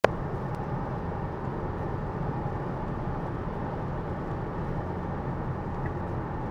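Steady road and tyre noise inside a Tesla's cabin while driving on a rain-soaked road, with a short click right at the start.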